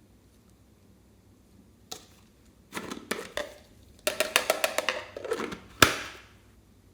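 Slime being squished and worked, giving crackling air-bubble pops. A quick run of pops comes in the middle, and one sharp snap near the end is the loudest.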